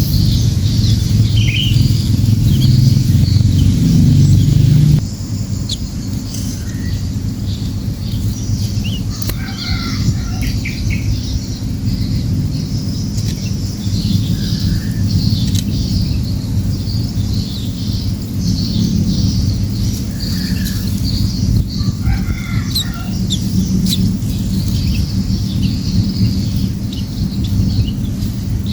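Cembelek birds chirping in short, scattered calls, as an adult feeds its nestlings. The calls come over a steady low rumble that drops a little about five seconds in.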